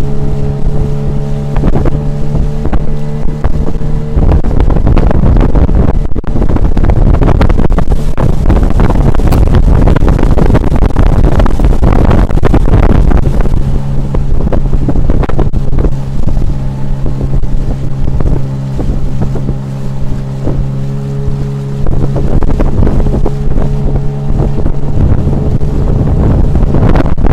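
Tohatsu 9.8 outboard motor running steadily under way on an inflatable boat, with wind buffeting the microphone and rushing water. The engine's steady tone stands out for the first few seconds, is covered by the wind noise, then comes back about halfway in until shortly before the end.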